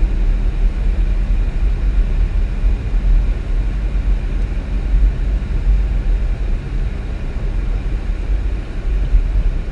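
Steady low rumble of a vehicle driving on the road, engine and road noise with no change in pace.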